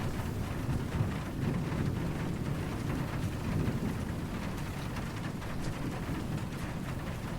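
Steady rain falling, with a low, continuous rumble of distant thunder underneath.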